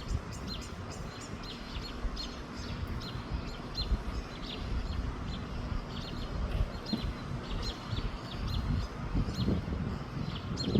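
Small birds chirping rapidly and continuously, short quick notes, over a steady low rumble of wind on the microphone.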